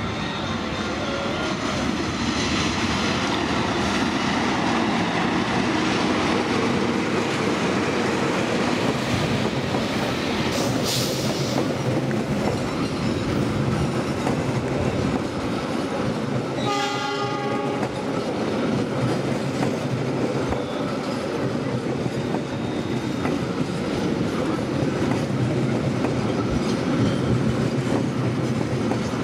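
A CC 206 diesel-electric locomotive and its passenger carriages passing close by: a steady rumble of engine and wheels with clickety-clack over the rail joints. A brief high wheel squeal comes about 11 s in, and a short horn blast about 17 s in.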